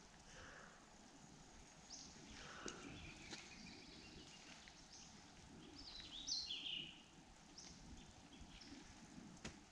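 Near-quiet woodland ambience with faint bird chirps. A brighter run of chirps comes about six seconds in, with a few light ticks here and there.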